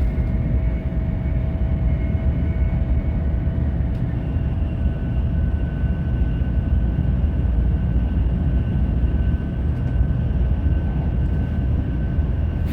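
Cabin running noise of a Kyushu Shinkansen 800 series train: a steady low rumble with faint whining tones, which shift higher about four seconds in, as the train slows into a station.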